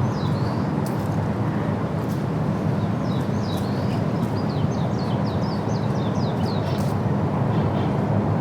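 A bird calling in a run of quick, repeated descending chirps through the middle, over a steady low rumble of distant traffic. A few faint sharp clicks are scattered through it.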